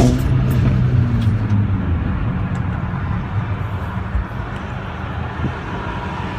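Mercedes-AMG CLA45's four-cylinder engine and exhaust while driving: the note drops off after a hard pull as the throttle lifts, with a few crackles from the exhaust, then settles into a steady low drone.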